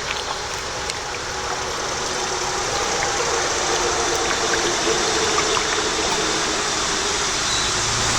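Steady road traffic noise from a highway, tyres hissing on the road, slowly growing louder with a faint passing engine hum.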